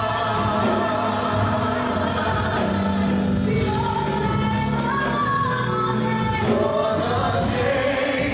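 Gospel choir singing with instrumental accompaniment, several voices holding long notes.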